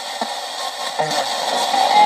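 Spirit box radio sweeping through stations: a steady hiss of static broken by short clipped snippets of broadcast sound, one about a quarter second in and another about a second in.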